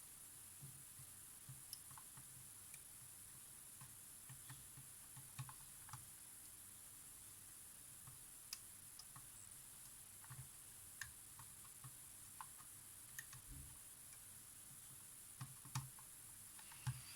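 Faint, irregular small clicks and taps from tools and small camera parts handled on a workbench, over a steady high hiss. A couple of louder clicks come near the end.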